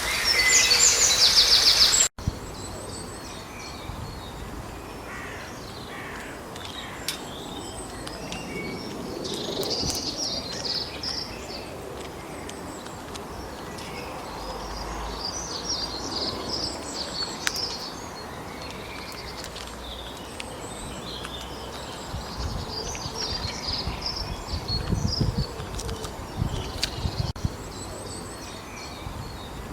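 Woodland birds singing and calling over a steady outdoor hiss, many short chirps and phrases from several birds at once. A louder noisy passage at the start cuts off abruptly about two seconds in.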